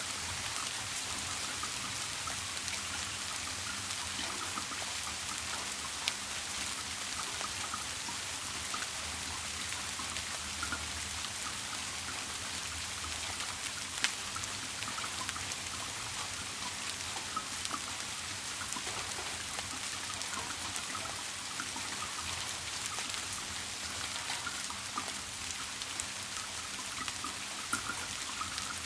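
Steady rain falling and pattering, with scattered drop ticks and a couple of sharper drop hits.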